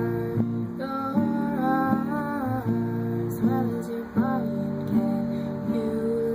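Acoustic guitar strummed in a slow song, its chords changing about once a second.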